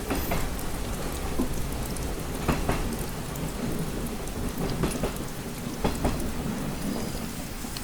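Steady rain pattering on a window pane, with scattered sharper drop taps over a continuous low rumble.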